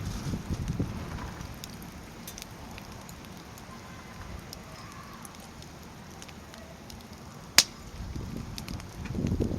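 Wood fire burning in a steel fire stand, crackling with scattered small snaps and one sharp loud pop about seven and a half seconds in. Low rumbling swells come at the start and again near the end.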